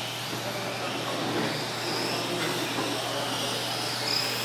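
Electric 1:10 scale Formula 1 RC cars racing on foam tires, their motors making high whines that rise and fall as the cars pass.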